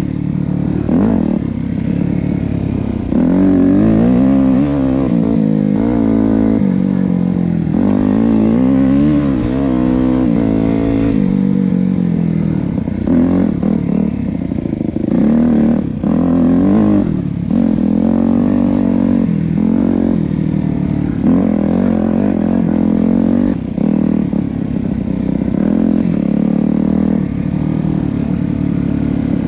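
Yamaha YZ250F dirt bike's 250cc four-stroke single-cylinder engine, revving up and down again and again as it is ridden hard on and off the throttle.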